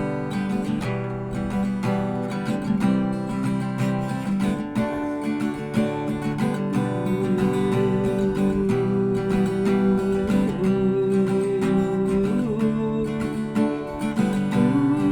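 Acoustic guitar strummed in an instrumental break of a song. A sustained melody line sounds over it from about halfway through.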